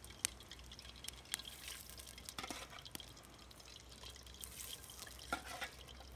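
Faint, scattered drips of water falling from freshly cut potatoes left to drain before frying.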